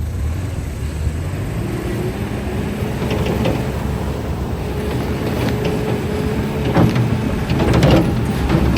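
Bobcat T650 compact track loader running and operating: a steady diesel engine hum with a whine about two seconds in, then metallic clanks and rattles near the end.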